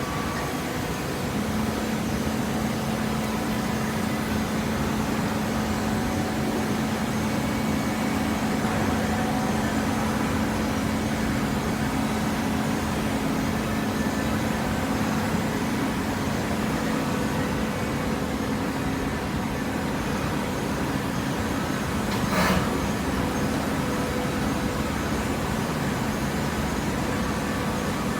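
Hydraulic vertical paper baler running: its motor-driven hydraulic pump gives a steady hum over mechanical noise, with one sharp clank about three-quarters of the way through.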